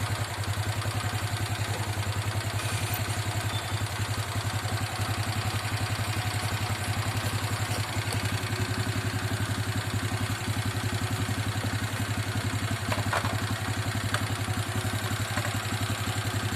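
Motorcycle engine idling steadily with an even, rapid pulsing beat.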